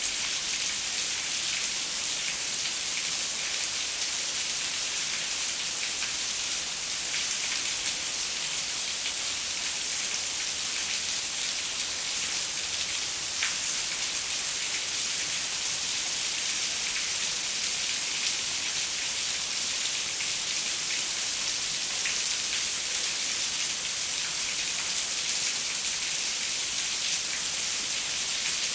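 Steady rain falling on a window, a dense even hiss of drops with fine pattering ticks and no let-up.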